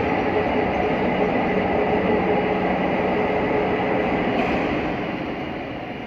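Steady rumbling mechanical noise with a faint continuous hum, easing slightly near the end.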